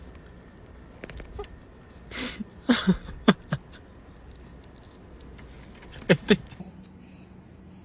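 A cat making several short calls, in a cluster about two seconds in and another pair about six seconds in.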